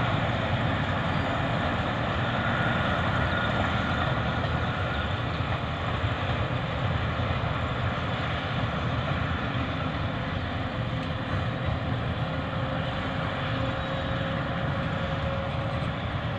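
Diesel locomotive hauling a passenger train past: a steady low engine drone with the rumble of the coaches, unbroken throughout.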